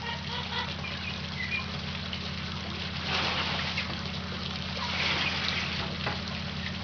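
Hummingbirds, mostly black-chinned, chittering with short high chirps as they squabble at a feeder. Two louder rushes of noise come about three and five seconds in, over a steady low hum.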